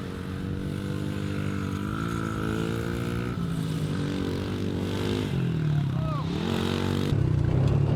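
Dirt bike engine running under changing throttle, its pitch dipping and rising a few times, and getting louder about seven seconds in as it is opened up.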